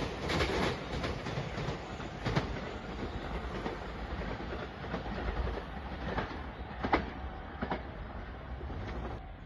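A train rumbling away after passing, its sound lower than the loud passage just before, with a few sharp clacks of wheels over rail joints.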